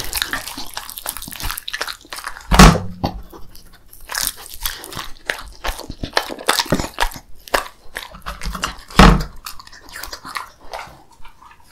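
Beagle chewing and licking hand-fed pieces of potato pancake, with a run of wet mouth smacks and soft crunches. Two louder thumps stand out, about two and a half seconds in and again near nine seconds.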